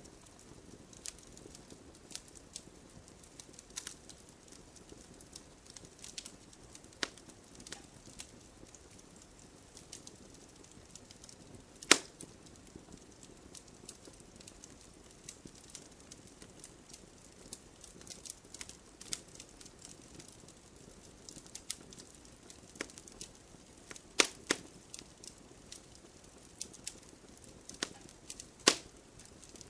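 Wood fire crackling in a fireplace: a low steady hiss under scattered sharp pops and snaps, with a few louder pops, one about twelve seconds in and two more near the end.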